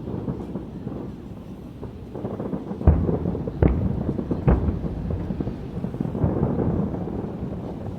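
Aerial fireworks bursting over a continuous low rumble and crackle, with three sharp booms about three, three and a half, and four and a half seconds in.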